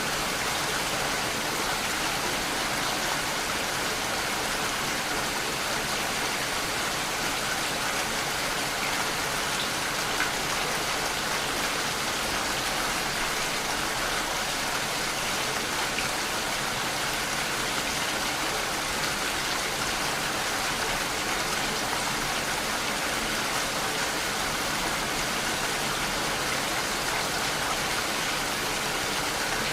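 Steady rain falling: an even, unbroken hiss of many drops that neither builds nor fades.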